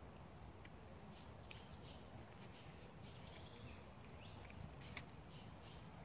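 Faint outdoor ambience: a low steady rumble with scattered short bird chirps and twitters through the middle, and a single sharp click about five seconds in.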